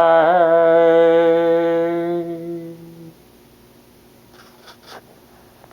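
A solo voice holds the song's final long note, wavering slightly at first and then steady, fading and stopping about three seconds in. A few faint clicks follow.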